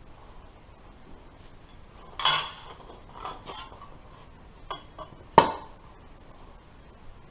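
Sheet-metal pieces clanking and clinking against metal as they are handled and folded, with a louder ringing clank about two seconds in and a sharp one about five and a half seconds in, and a few lighter clinks between.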